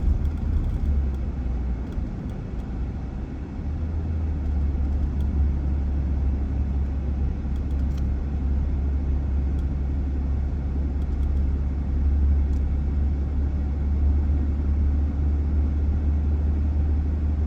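Toyota Land Cruiser 300 driving, a steady low rumble of engine and road noise that holds throughout.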